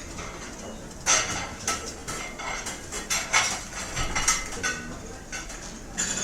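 Restaurant cutlery and dishes clinking and clattering over a low steady background din. A quick run of sharp clinks starts about a second in, and another clink comes near the end.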